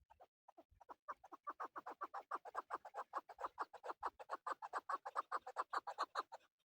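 Male chukar partridge calling: a long, rapid run of short repeated notes, about eight a second, that starts about a second in and stops shortly before the end.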